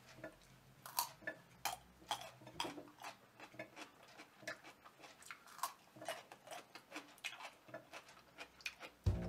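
Someone chewing a crisp raw radish: a run of sharp, irregular crunches, about two or three a second.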